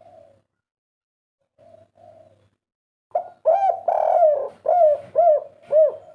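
Spotted dove (tekukur) cooing: two soft coos early on, a pause, then from about three seconds in a loud run of about six coos, each note rising and falling in pitch.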